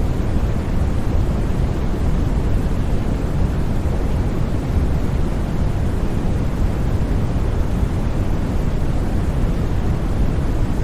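Steady white noise from a sleep-sound track, even and unchanging. It is weighted toward the low end, so it sounds like a deep, smooth rush rather than a bright hiss.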